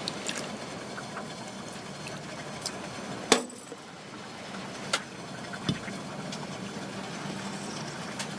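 A few scattered sharp clicks and knocks, the loudest a little past three seconds in, over a steady background hiss.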